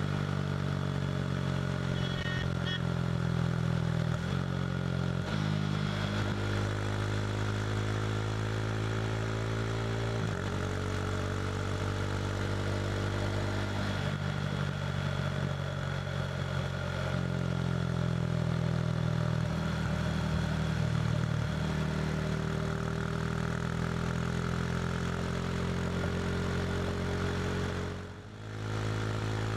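KTM RC 390's single-cylinder engine through an SC Project slip-on exhaust, running hard at highway speed, its note rising and falling slowly with a few abrupt jumps in pitch where gears are shifted. Near the end the sound drops away briefly and comes back.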